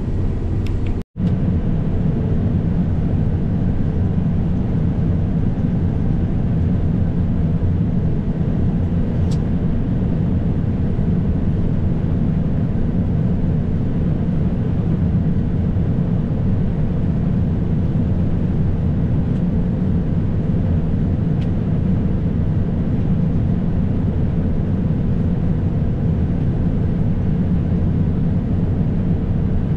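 Combine harvester running steadily while cutting soybeans, a dense low drone of engine and machinery. It breaks off for an instant about a second in.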